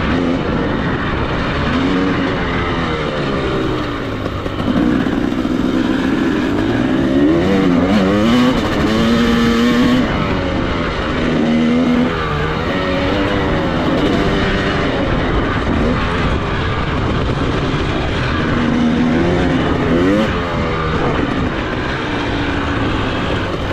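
Dirt bike engine being ridden hard, revving up and easing off over and over. Its pitch climbs and then drops back with each gear change or throttle roll-off.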